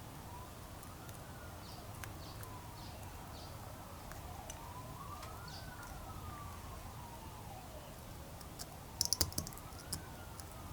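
Distant siren wailing, its pitch slowly rising and falling about every four seconds. About nine seconds in, a quick cluster of sharp clicks stands out.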